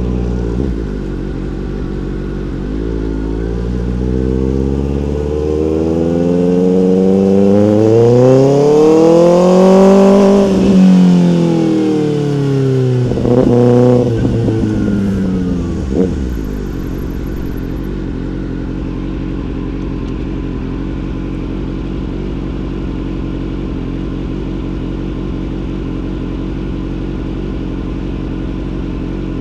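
Motorcycle engine revving up through the gears, its pitch climbing to a peak about ten seconds in and then falling away, with a couple of short blips of throttle a few seconds later, then settling into a steady low running note for the rest.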